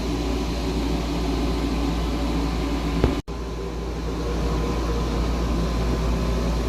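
The yacht's air conditioning running: a steady hum over a low rumble. About three seconds in there is a click, then the sound cuts out for a moment before the hum resumes.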